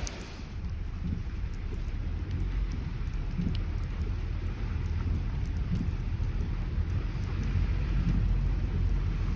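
Heavy rain falling, with scattered drops ticking on a surface, under a continuous low rumble of thunder that swells near the end.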